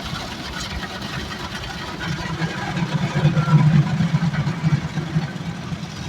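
Rotating brush of an automatic car wash scrubbing over the car, heard from inside the cabin: a steady swishing with a low hum that swells louder from about two seconds in and eases off near the end.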